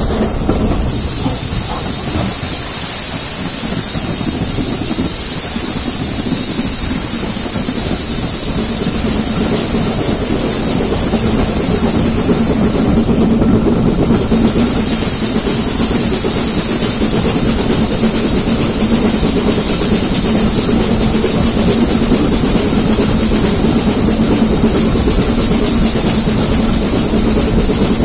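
Steam-hauled train running along the line, heard loud from a carriage window behind the locomotive: the steady rumble of wheels on the track, with a steady high hiss that drops out briefly about halfway through.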